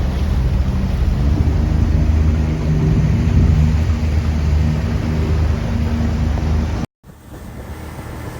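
Mini speedboat's motor running steadily at speed, with wind rushing over the microphone. It cuts out abruptly about seven seconds in, and a quieter steady rush follows.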